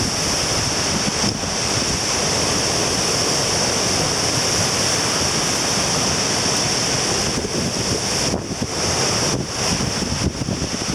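Surf washing onto a beach at high tide, with strong wind buffeting the microphone: a loud, steady wash of noise that dips briefly twice near the end.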